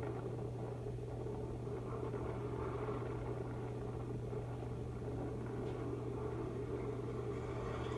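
Steady low rumble and hum of the Seven Dwarfs Mine Train roller coaster ride, recorded quietly on board.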